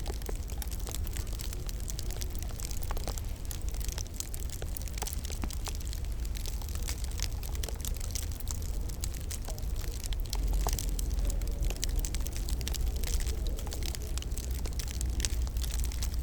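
Wood fire crackling in a fireplace: a dense stream of small irregular pops and snaps over a steady low rumble.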